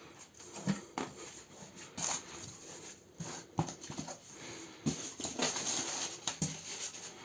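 Cardboard packaging being opened and handled by hand: irregular rustling and scraping with scattered light knocks.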